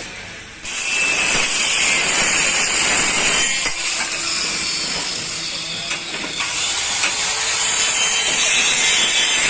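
A workshop tool starts abruptly under a second in and runs with a loud, steady, hissing rasp, easing a little partway through.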